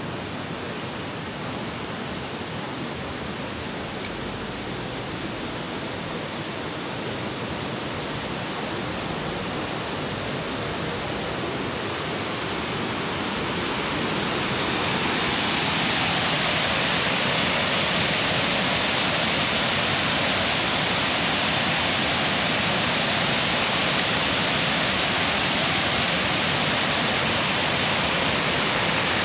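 Waterfall rushing in a steady roar of falling water. It grows louder over the first half, then holds steady.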